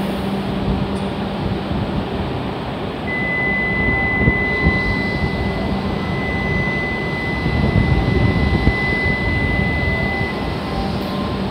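E7 series Shinkansen standing at the platform with its equipment humming steadily. A steady high electronic tone sounds over it for about seven seconds, starting about three seconds in.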